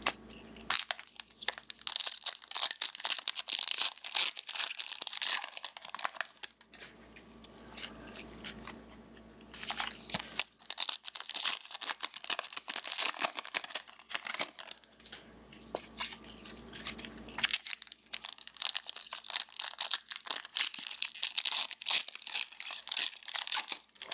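Crinkly plastic wrapping torn and crumpled by hand, in three spells of dense crackling with two short pauses between them.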